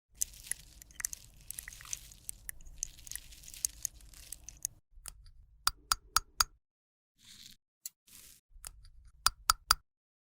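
Close-miked crunching and scraping of makeup being worked by hand for about five seconds, then sharp clicks: three quick ones about six seconds in and four more near the end.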